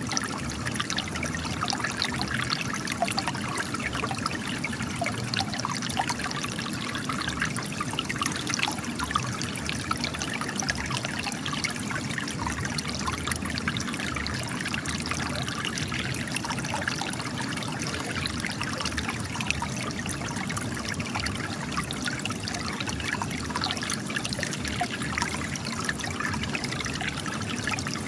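Spring water trickling and splashing steadily as it gushes out of cracks in rock, a continuous babble of small splashes.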